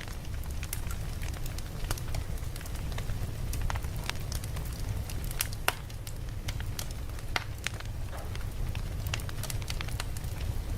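Wood campfire crackling: irregular sharp pops and snaps over a steady low rumble of the fire.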